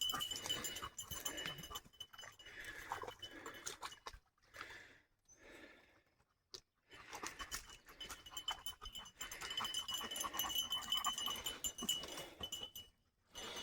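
Dogs moving about in brush and muck, with scattered rustling and panting-like noises, quieter for a few seconds in the middle. A faint steady high-pitched tone sits underneath.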